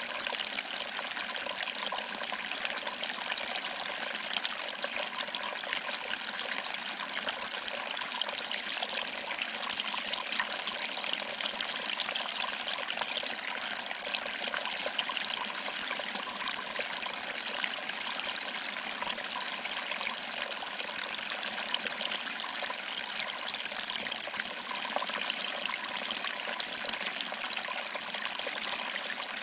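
Small waterfall: water trickling over rocks and splashing into a pool below, a steady, even rush of water.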